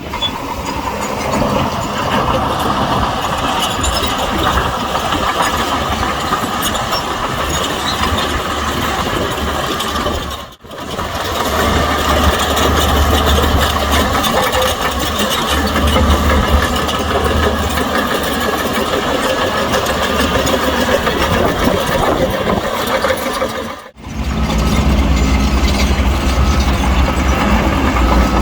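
Diesel engine of heavy earthmoving equipment running steadily, with deep rumble and clatter. The sound breaks off sharply about ten seconds in and again near the end, then resumes.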